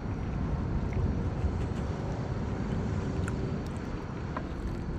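Steady low rumbling outdoor noise, with a few faint clicks and taps over it.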